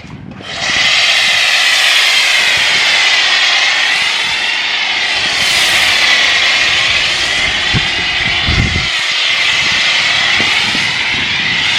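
Pressure washer spraying snow foam through a foam lance: a steady, loud whine and hiss that starts about half a second in, its pitch wavering slowly up and down.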